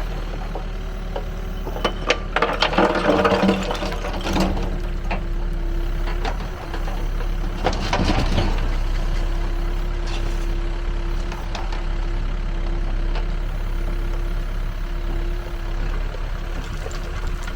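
Backhoe loader's diesel engine running steadily while the screening bucket works, with bouts of rattling clatter from soil and rubble about two to four seconds in and again around eight seconds. A steady whine sets in at about nine seconds.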